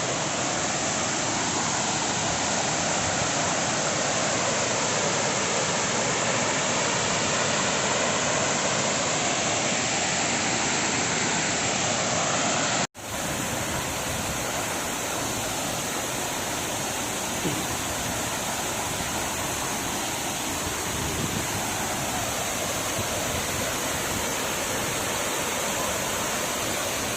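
Steady rushing roar of a waterfall's falling water. It breaks off for an instant about halfway through, then carries on unchanged.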